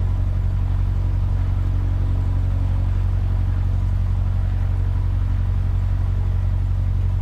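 Cessna 150's four-cylinder Continental O-200 engine and propeller idling steadily on the ramp, a constant low drone heard from inside the cockpit.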